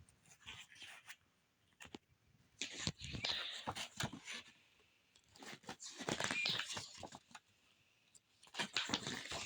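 Album packaging being handled and opened: rustling and crinkling of plastic and paper with small clicks, in three short bursts about two and a half, five and a half and eight and a half seconds in.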